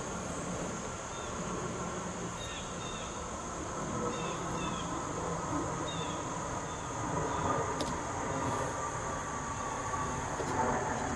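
Backyard ambience: a low rumble like a distant passing vehicle under a steady high-pitched hum, with faint short bird chirps scattered through the first half and one sharp tap about eight seconds in.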